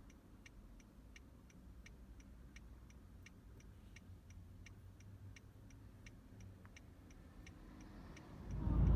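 Fast, regular ticking, about two to three ticks a second, over a faint low hum.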